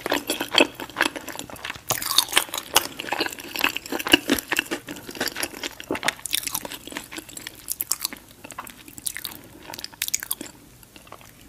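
Close-up chewing and crunching of crispy fried chicken coated in hot sauce: dense wet, crackly mouth sounds that thin out and grow quieter near the end.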